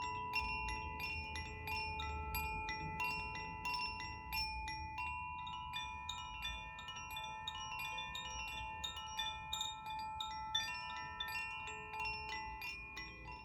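Koshi chimes being swayed, their clapper striking the tuned rods in quick, irregular tinkles, several a second, with the bright tones ringing on and overlapping.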